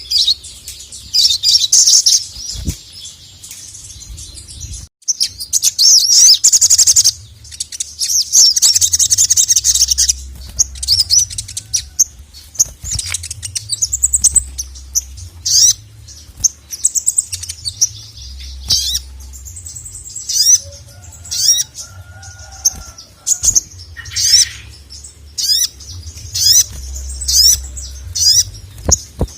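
Sogok ontong (sogon), a spiderhunter, calling excitedly: dense runs of rapid, high-pitched chattering notes for about the first ten seconds, then a string of separate sharp calls, each sliding down in pitch, repeated every second or so.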